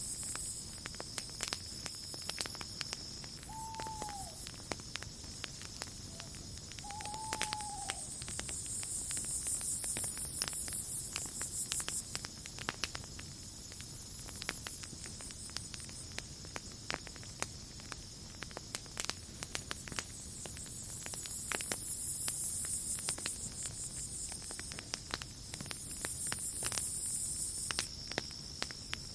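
Campfire crackling with many small irregular pops over a steady background of crickets and other night insects trilling high, their chorus swelling and fading. Two short arched calls, about four and seven seconds in.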